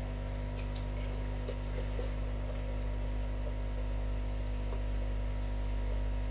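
A steady low electrical or machine hum, with a few faint small clicks in the first couple of seconds.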